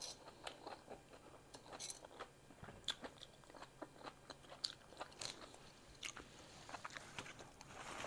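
Close-up eating sounds: chewing with a scatter of soft, irregular mouth clicks and smacks.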